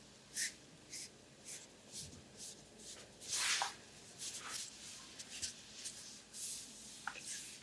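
Hands stroking and rubbing skin slick with massage oil during an abdominal massage: short swishes about twice a second, with one longer, louder stroke about three and a half seconds in.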